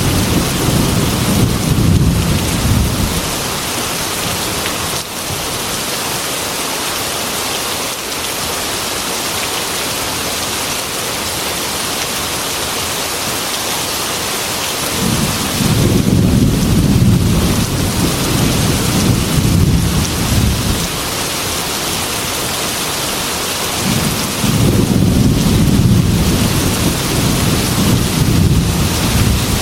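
Steady heavy rain with rolling thunder that rumbles three times: at the start, again about 15 seconds in, and again near the end.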